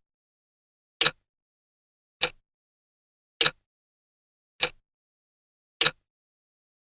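Countdown timer sound effect: a short, sharp tick about every 1.2 seconds, five ticks in all.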